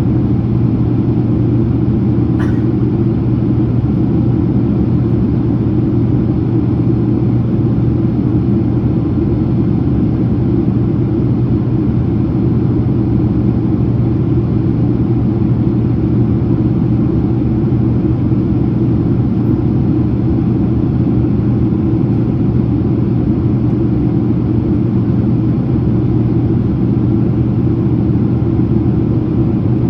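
Steady drone of engines and airflow inside the cabin of a Boeing 767-300ER during its descent, with a low hum and no change throughout.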